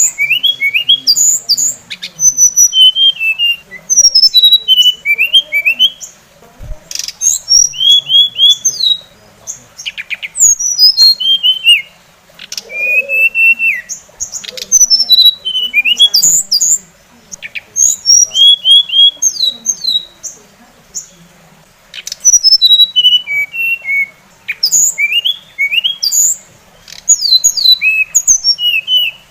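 Songbird song from a masteran tutoring recording: bursts of quick, sweeping whistled notes and chatter, each lasting a second or two with short pauses between.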